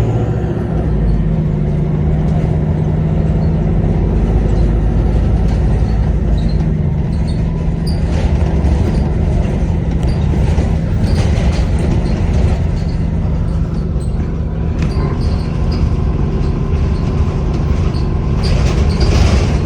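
Volvo B5LH hybrid double-decker bus under way, its diesel engine running with a steady low rumble. From a little past the middle, a faint steady high tone comes in: the turbo whistle.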